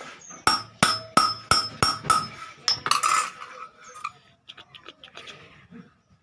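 Hammer striking iron, about eight sharp ringing blows at roughly three a second, then a few lighter taps near the end: forging sheet iron for an incense burner.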